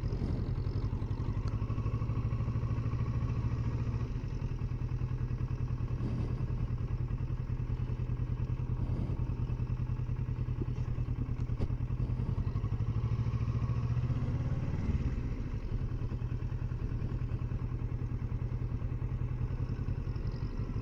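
Kawasaki Versys 650 parallel-twin motorcycle engine running steadily at low road speed in first gear, with a small swell in revs about two-thirds of the way through.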